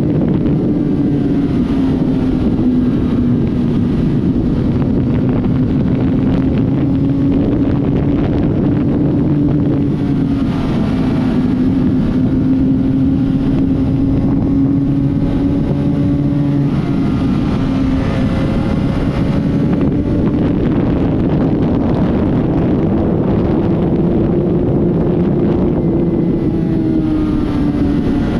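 Honda CBR600RR's inline-four engine running at a steady, unhurried pace, its pitch drifting gently, rising over a few seconds past the middle and easing back near the end. Wind rushes over the microphone throughout.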